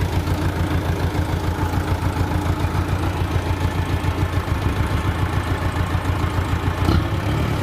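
Mitsubishi Canter dump truck's diesel engine idling with a steady, pulsing throb. A single knock sounds near the end.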